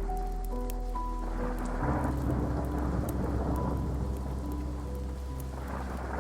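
Steady rain with ticking drops and rolling thunder that swells about two seconds in and again near the end, over a soft bed of slow, sustained ambient chords that change about two seconds in.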